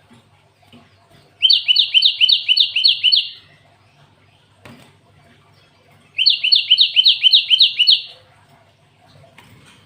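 Cinereous tit (gelatik batu) tutored on canary song, singing two bursts of about two seconds each, made of rapid repeated rising notes at around four or five a second. A single knock sounds between the two bursts.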